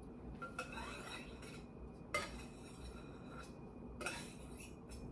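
Metal knife clinking and scraping against dishware while cutting and cleaning off a slice of cheesecake: three sharp clinks with brief ringing, about half a second, two seconds and four seconds in.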